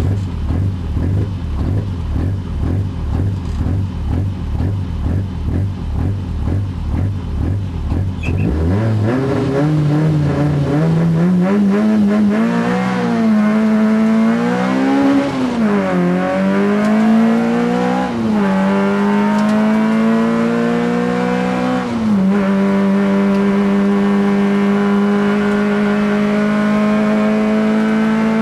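Peugeot 106 rally car's engine, heard from inside the cabin, idling with an even pulse while the car stands still. About eight seconds in it revs up and the car pulls away under hard acceleration. The engine note climbs and drops back at each of four upshifts, then climbs slowly and steadily near the end.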